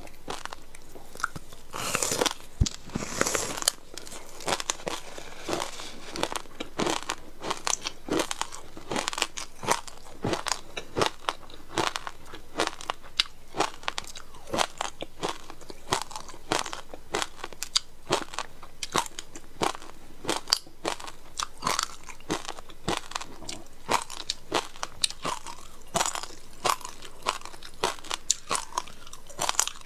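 Someone crunching and chewing frozen passion fruit ice close to the microphone, with a steady run of sharp cracks several times a second and a louder burst of bites about two seconds in.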